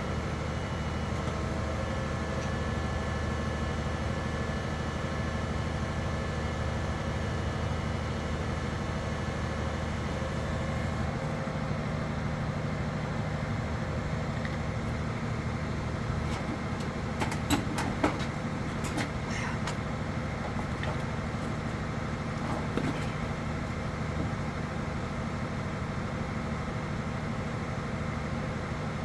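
A large engine running steadily, its tone changing about eleven seconds in, with a few sharp metallic clicks and clanks about seventeen to nineteen seconds in and once more near twenty-three seconds.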